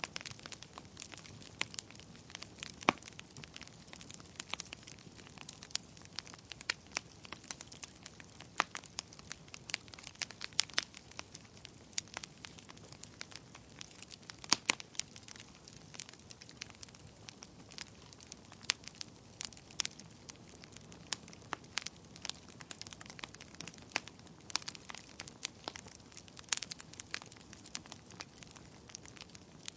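Wood fire crackling in a fireplace: irregular sharp pops and snaps of many sizes over a soft steady hiss of burning.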